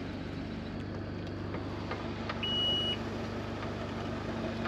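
Four-wheel drive's engine idling steadily, with one short high-pitched beep about halfway through.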